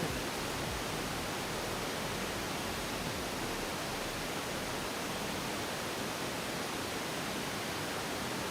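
Steady, even hiss with no distinct events or tones.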